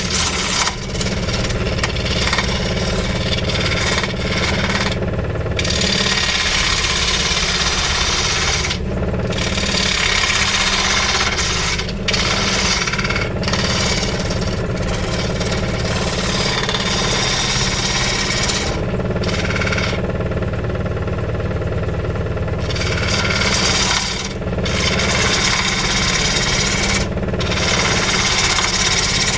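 A power tool running steadily and cutting into weeping willow wood. The rough cutting noise breaks off briefly several times, longest about twenty seconds in.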